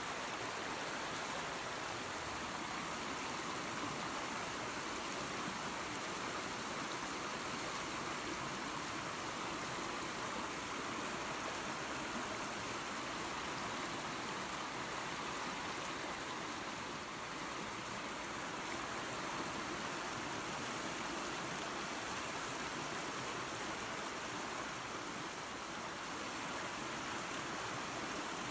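Creek water and a small waterfall running steadily: an even, unbroken rush.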